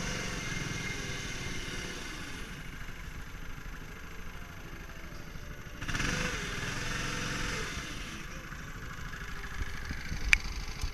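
8 hp mud motor (surface-drive outboard) on a PVC inflatable boat running; its pitch drops at the start and it fades, then it comes back louder about six seconds in and fades again. A sharp click near the end.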